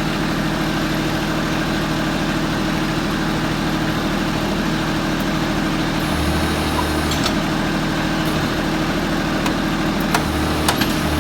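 Tractor engine idling steadily, its low note shifting briefly about six seconds in and again near the end, with a few sharp clicks near the end.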